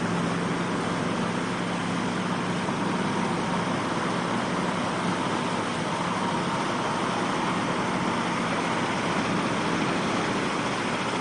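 A vehicle engine running steadily under a dense rushing noise, with a low hum that fades out about halfway through.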